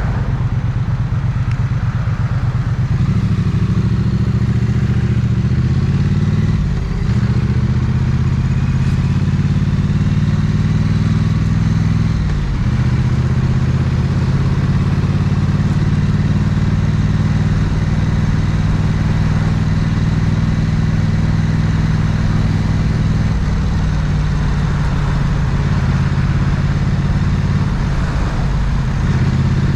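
Triumph 900cc parallel-twin motorcycle engine and exhaust, heard from the rider's seat in traffic. It starts at low revs, the pitch climbs about three seconds in, and there are two brief dips in revs around seven and twelve seconds in. It then runs at steady revs and eases down a step in the last quarter.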